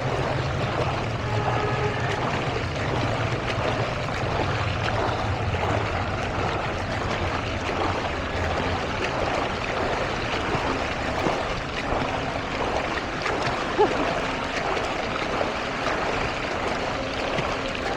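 Floodwater rushing and splashing steadily, with a low motor hum underneath that fades out about halfway through.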